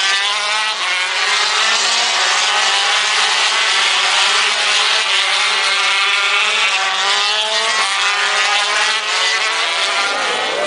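Several racing motorcycle engines running at high revs, their pitches overlapping and gliding up and down.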